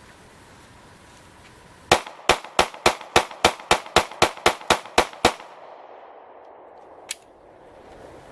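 A rapid string of about thirteen sharp, gunshot-like cracks, about four a second, then a single crack about two seconds later.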